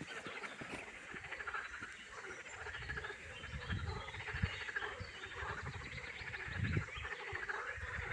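A chorus of frogs calling together in a dense, fast-pulsing chatter, with irregular low rumbles on the microphone.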